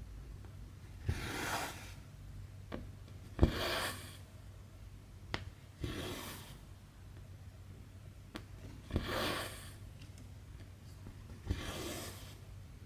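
Needle and floss being pulled through 11-count cross-stitch fabric: a sharp tick as the needle goes through, then a short swish as the thread is drawn taut, repeating about every two and a half seconds, five times. A few fainter separate ticks fall between the pulls.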